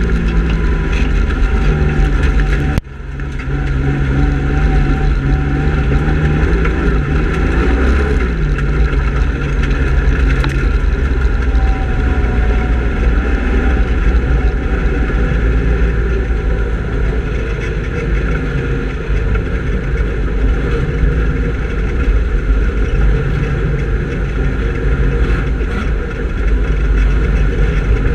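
Speedway race car engines running hard through a heat, their pitch rising and falling over a heavy low rumble, with a sudden brief drop in level about three seconds in.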